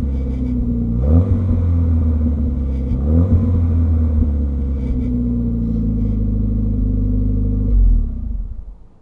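1981 Volvo 245 Turbo's turbocharged four-cylinder engine running through a 3-inch turbo-back exhaust with a Dynomax muffler. The revs climb quickly about a second in and again about three seconds in, hold, and then the sound dies away near the end.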